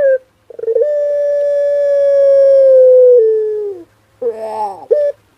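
Male puter pelung (long-voiced ringneck dove) cooing: a brief note, then one long, steady drawn-out coo of about three seconds that steps down in pitch near its end, followed by a falling note and a short closing note.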